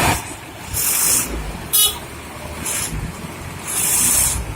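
Road traffic with vehicle engines running, a short horn toot about two seconds in, and several brief bursts of hiss.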